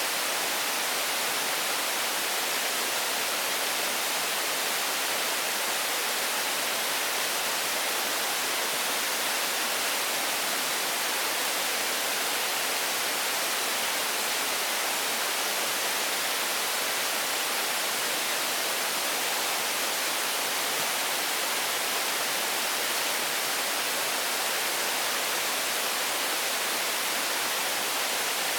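A steady, even hiss of noise, strongest in the high end, with no separate events in it.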